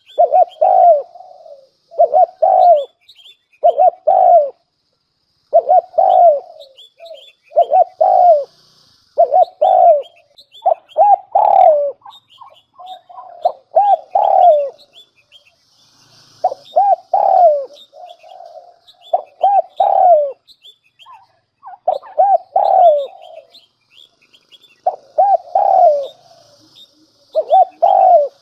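Spotted dove (cu gáy) decoy bird cooing: the male's advertising call, a string of short coo phrases repeated every second or two with brief pauses. Faint high chirps from small birds come in between.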